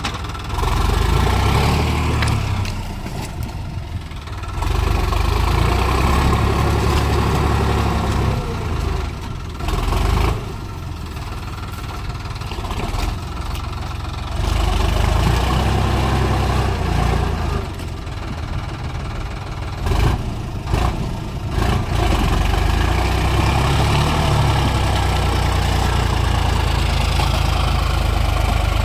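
Sonalika tractor's diesel engine working hard in deep mud, surging and easing off every few seconds as the tractor slips. A few sharp knocks come about two-thirds of the way in.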